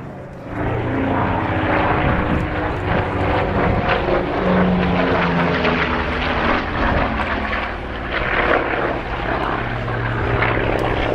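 Douglas AD-4 Skyraider's large piston radial engine (the 18-cylinder Wright R-3350) and propeller, heard flying a display pass; the engine note swells about half a second in and stays loud and steady, its pitch shifting slightly.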